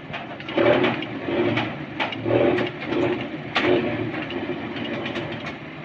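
Truck-mounted crane and its truck engine working while unloading heavy tiles: a noisy mechanical sound that swells in irregular loud pulses, with sharp clicks and knocks among them, settling to a steadier level near the end.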